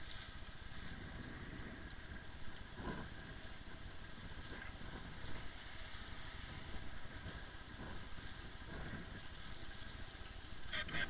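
Motorboat engine running steadily under way, with a continuous rushing noise.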